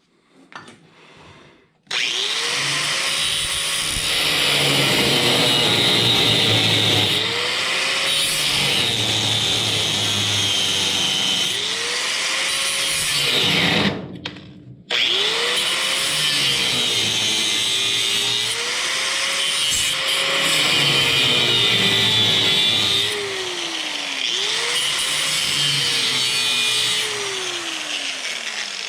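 Hand-held power tool cutting or drilling into a car's body sheet metal. It starts about two seconds in and stops for about a second halfway through, then runs again. Its motor whine sags and recovers over and over as it bites into the metal.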